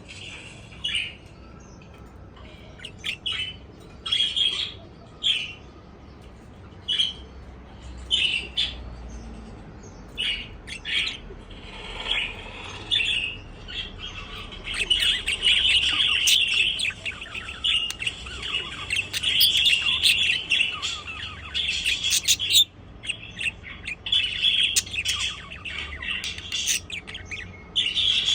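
Budgerigars chirping and chattering: scattered short chirps at first, then from about halfway a near-continuous warbling chatter with a brief pause near the end.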